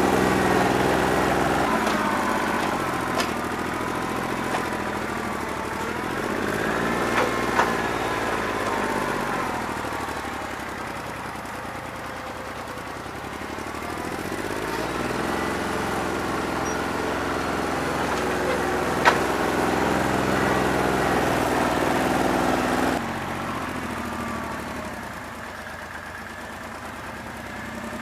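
New Holland 1320's three-cylinder diesel engine running under changing load, its pitch rising and falling in slow sweeps, with a few sharp clanks. It runs rough on a bad injector, on about two and a half cylinders. The engine drops off noticeably near the end.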